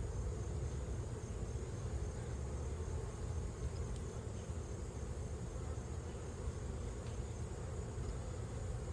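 Many honeybees buzzing steadily around an open hive, a continuous hum of a disturbed colony.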